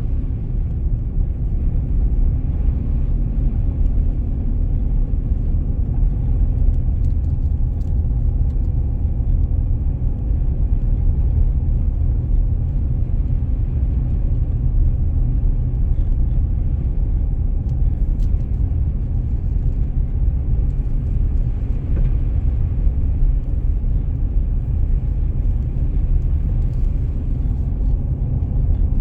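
Car driving on a snowy road: a steady low rumble of engine and road noise.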